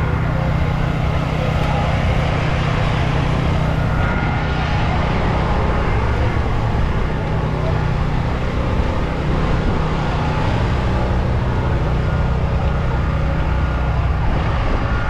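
Steady low engine rumble from idling cars, with faint voices in the background.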